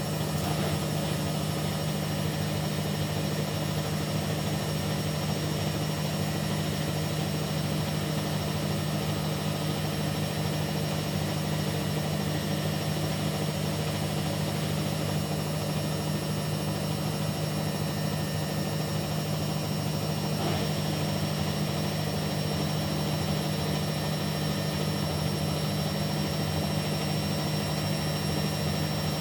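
Kunft washing machine running its quick wash cycle, a steady motor hum that holds an even level throughout.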